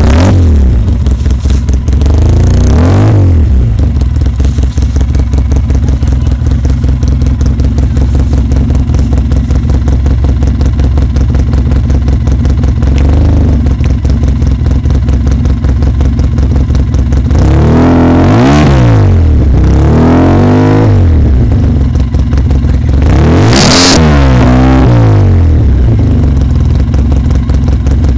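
Polaris RZR side-by-side engine running through an HMF aftermarket dual exhaust, idling steadily with short throttle blips that rise and fall quickly: two near the start and several in the last third, the loudest about 24 seconds in.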